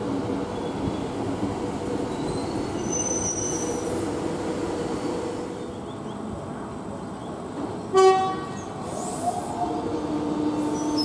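X'Trapolis electric train running through the station with a steady rumble, then a single short horn toot about eight seconds in. A steady hum starts up near the end.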